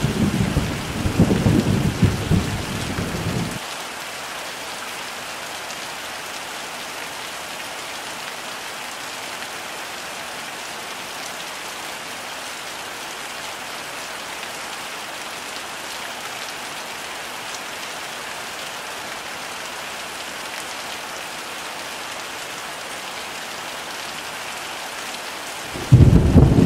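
Heavy rain falling steadily, with thunder rumbling for the first three or so seconds before cutting off abruptly. Another loud rumble of thunder starts suddenly about a second before the end.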